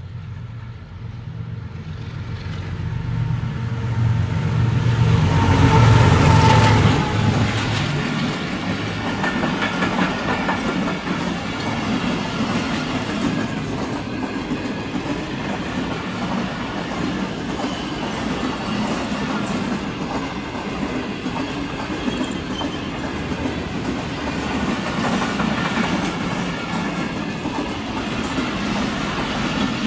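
Diesel locomotive of a Pakistan Railways passenger express coming up and passing close by, its engine rumble growing to a peak about six seconds in. A long line of coaches then rolls past, wheels clattering steadily over the rails.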